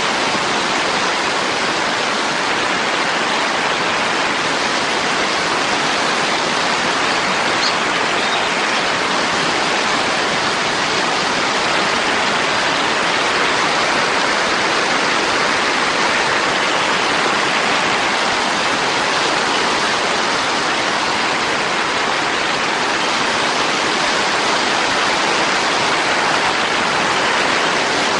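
Heavy rain pouring down, a loud, steady hiss that stays even throughout.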